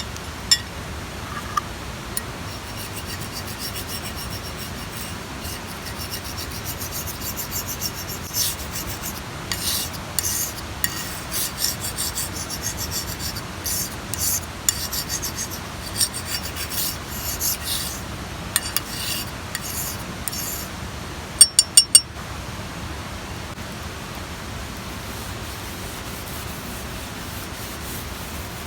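Irregular short scraping strokes, hard rubbing on a rough surface, then three sharp clicks in quick succession near the end; a steady rushing noise runs underneath.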